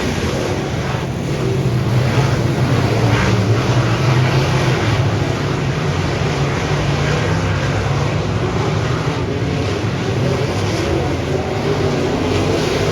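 Dirt modified race car engine running steadily at speed, its drone carried under a thick rush of wind and track noise.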